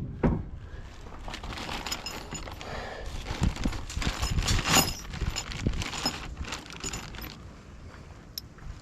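Loose steel hardware clinking and rattling: bolts, nuts and lock washers being handled and fitted while fastening a fifth-wheel hitch mount, with a few knocks. Busiest in the middle, thinning out near the end.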